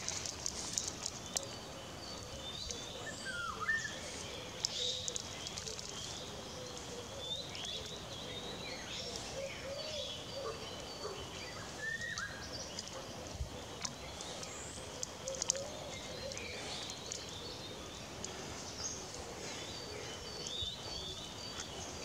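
Several wild birds calling, a mix of many short high chirps and a few whistled notes that swoop up and down in pitch.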